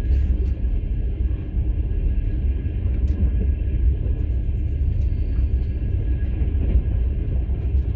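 Steady low rumble of a moving passenger train heard from inside a platzkart sleeper carriage, with a few faint ticks.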